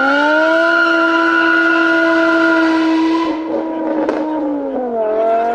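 Car engine revving: a loud, steady high note held for about three seconds, which sags, dips near the end and climbs again.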